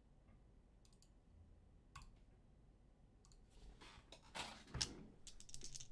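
Faint, scattered clicks, then a quicker run of clicks with short rustles in the last couple of seconds.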